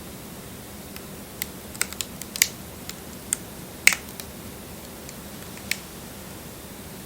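Wood fire crackling: irregular sharp pops and snaps from burning wood over a steady low hiss, most of them clustered in the first half.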